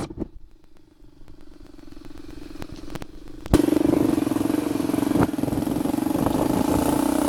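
Motocross motorcycle engine running at a steady pitch, faint at first and slowly growing louder, then abruptly much louder from about three and a half seconds in.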